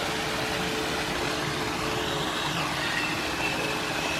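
Steady rushing noise with a faint, even hum under it.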